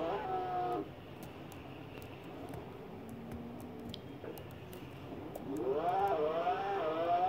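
Twin-turbo Lamborghini Aventador's V12 heard inside the cabin under full throttle. Its revs climb and then cut off about a second in, and the engine stays low and quiet for a few seconds. From about five seconds in it pulls hard again, the pitch rising with a couple of small steps as it gains speed.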